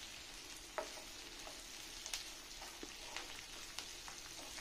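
Small onions, dried red chillies and curry leaves frying in groundnut oil: a faint steady sizzle with scattered small pops, as a wooden spatula stirs them around the pan.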